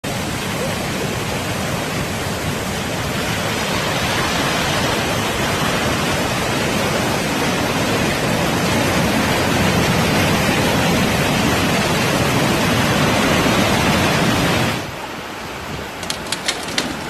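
Loud, steady noise of heavy water, flood torrent or downpour, that cuts off abruptly near the end, followed by a few sharp clicks.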